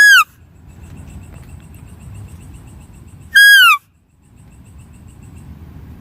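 Two loud, brief whistle-like animal calls about three and a half seconds apart, each held on one pitch and then falling.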